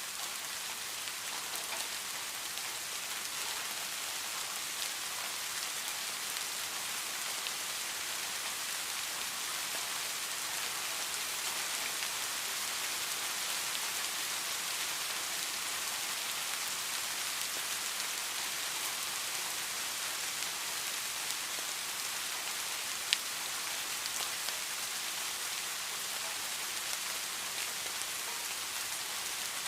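Steady heavy rain: a dense, even hiss with scattered drop ticks. One sharper tap comes about three-quarters of the way through.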